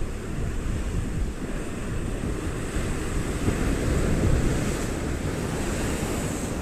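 Ocean surf breaking and washing ashore, the wash swelling in the middle, with strong wind buffeting the microphone.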